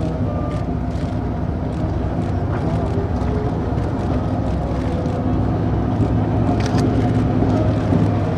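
Engines of military vehicles running steadily as a column drives past. The sound grows a little louder from about halfway through as a vehicle comes closer.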